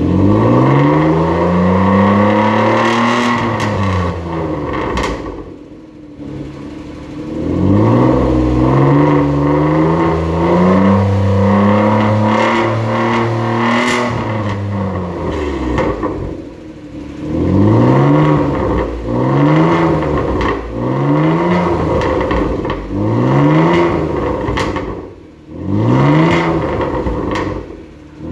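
Hyundai Grandeur HG with a variable-valve exhaust being revved: two long revs that climb and fall back, then a string of short, quick throttle blips.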